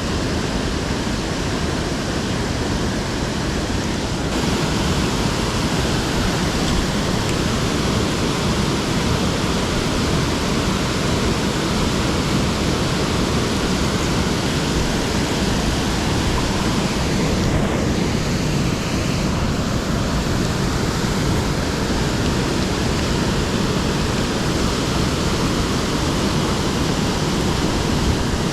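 Waterfall rushing into a pool: a loud, steady roar of falling water.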